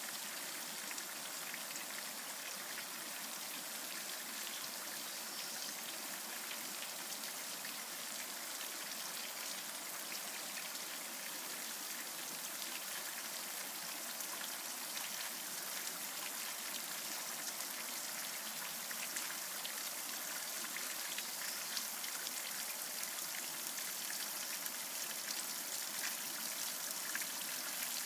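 Steady rain pattering on surfaces, individual drops ticking, over the even rush of a creek. The drops become a little denser and louder near the end.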